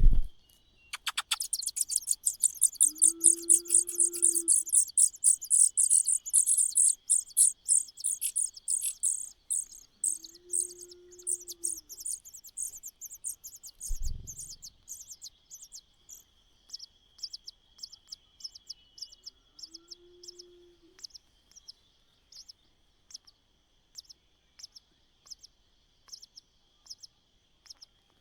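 Nestling birds begging in the nest: a fast run of high-pitched chirps, several a second, loudest in the first third and then thinning to sparse chirps. A steady high insect drone sits underneath, with three short low calls spread through.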